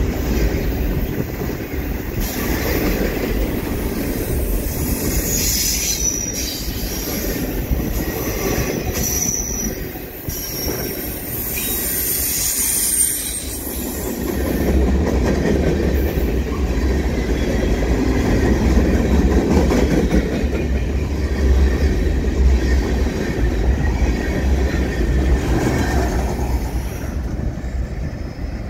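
Train cars rolling past close by: a steady rumble and clatter of wheels on the rails, with high wheel squeal during the first half. The low rumble grows heavier about halfway through as the last cars go by.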